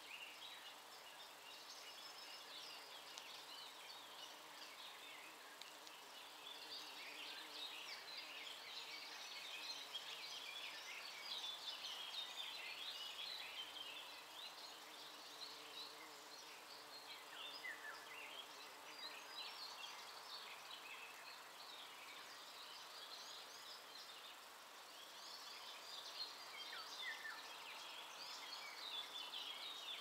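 Faint birdsong from several small birds, a busy mix of short high chirps and trills with a few brief falling whistles, over a steady background hiss.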